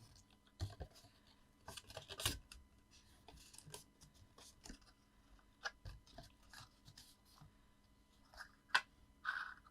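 Scored card stock being handled and folded by hand: scattered light rustles and taps of paper, with a couple of sharper clicks about two seconds in and near the end.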